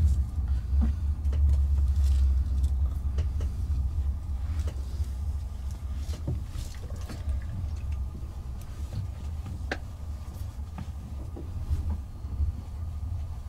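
Night-train couchette car rolling slowly through a station, heard from inside the compartment: a steady low rumble from the running gear, louder for the first couple of seconds, with scattered clicks and creaks.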